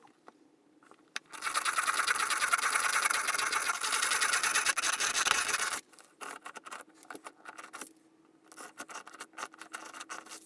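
A continuous rasping scrape of a tool or abrasive working across wood, lasting about four seconds and starting about a second in. Shorter, intermittent scratchy strokes follow.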